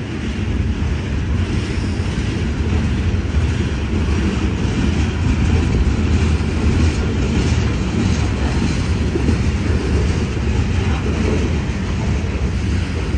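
Freight cars of a CSX mixed freight train rolling past: a steady, loud rumble of steel wheels on rail, with faint clicking of the wheels in the middle stretch.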